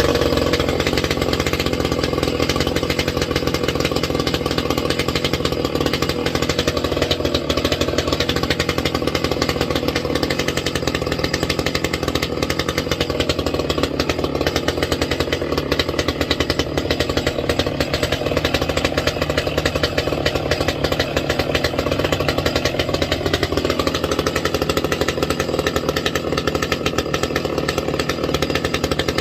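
Ported Echo CS-670 two-stroke chainsaw running steadily, with a slight wavering in pitch.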